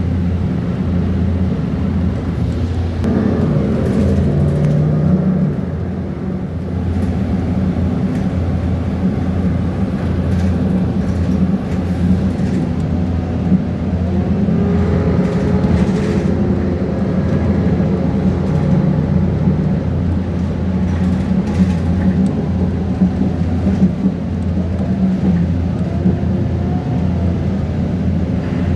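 Mercedes-Benz Conecto G articulated bus heard from inside, its OM457 six-cylinder diesel running steadily with a whine that rises and falls. Short rattles and clicks from loose interior parts come through now and then.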